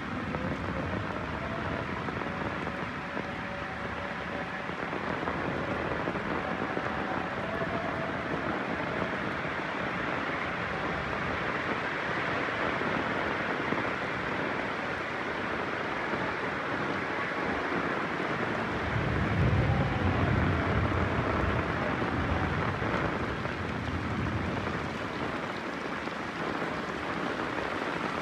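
Heavy rain falling steadily. About two-thirds of the way through, a low roll of thunder rises and fades over a few seconds.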